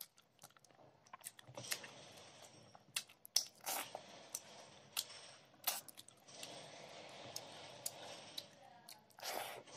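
Close-up eating sounds: wet chewing with many sharp mouth smacks and clicks as rice and fish curry eaten by hand are chewed, with a longer smack near the end.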